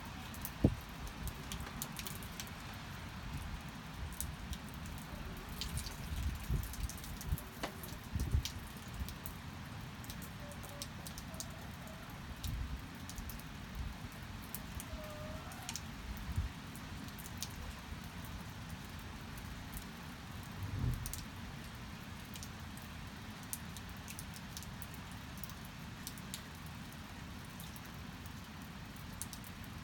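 Steady rain falling, with scattered drips and soft knocks of water on surfaces, and a few faint short hen calls.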